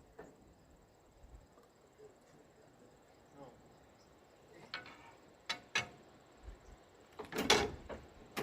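Scattered clicks and knocks, then near the end a loud burst and a sharp pop as the 1922 Rumely OilPull tractor's engine fires once without catching.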